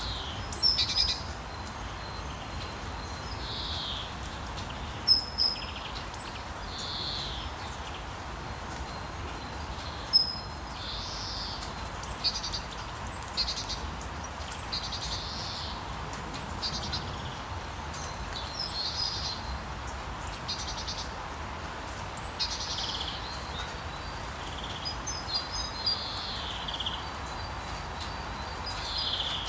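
Rainforest ambience: birds giving short high chirps and brief slurred calls every second or two, over a steady background hiss with a faint, steady high tone.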